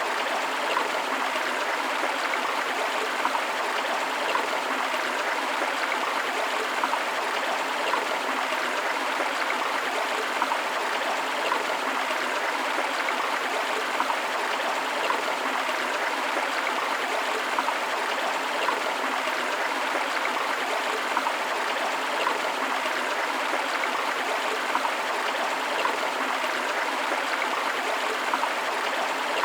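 Steady rush of a forest river flowing over rocks, with small splashing and gurgling in the flow and no pauses.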